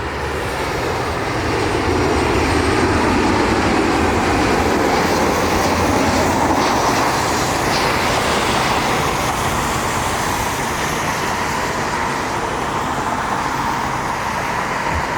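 Jet airliner engines, a steady loud rumble that swells over the first couple of seconds, holds, then eases slightly toward the end, as the arriving aircraft passes.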